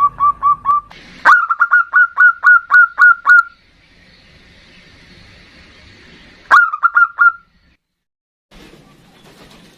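Zebra dove (perkutut) cooing in quick runs of short, sharp notes, about four a second, in three bursts. The longest burst comes about a second in, and a short one comes near the middle.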